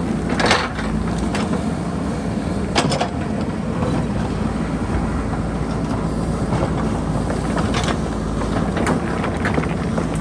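JCB backhoe loader's diesel engine running steadily under load, with a few sharp knocks from the bucket working among boulders, about half a second, three, eight and nine seconds in.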